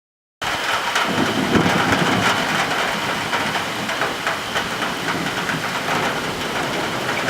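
Heavy summer thunderstorm rain pouring down, a dense steady hiss full of drops striking hard surfaces, cutting in abruptly about half a second in.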